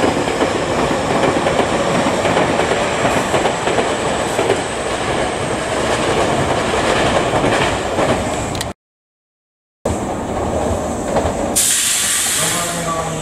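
Tobu 10050-series electric train running on the station tracks, with dense wheel-on-rail rolling noise, clatter over rail joints and a faint high whine. The sound cuts off about nine seconds in, and a short burst of hiss comes near the end.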